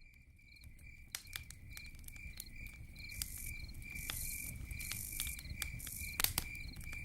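Campfire night ambience: crickets chirping in a steady pulsing rhythm over the irregular snaps and crackles of a burning fire, fading in at the start.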